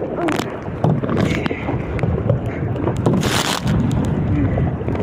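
Strong wind buffeting the microphone over splashing water around a kayak being paddled through chop, with a brief louder hissing splash about three seconds in.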